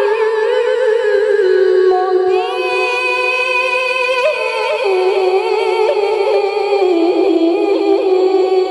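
A woman reciting the Qur'an in melodic tilawah style, drawing out the vowel of 'ḍalāl' as one long, ornamented held note in a high, clear voice. The pitch wavers and steps gradually lower, with a brief rise about halfway through.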